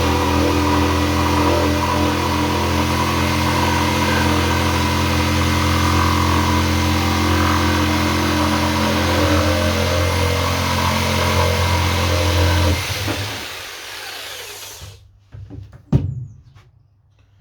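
A Fieldmann FDP 200712-E 710 W corded jigsaw running steadily while cutting slowly through a wooden board, which the owner puts down to a poor blade. About 13 s in the saw stops and winds down, and a sharp knock follows a little later.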